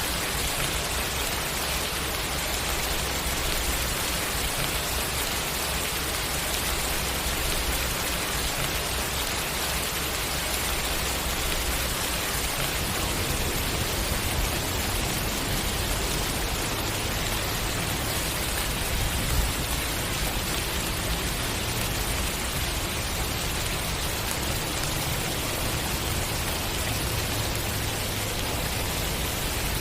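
Steady rain falling on a surface, an even hiss with a low rumble underneath.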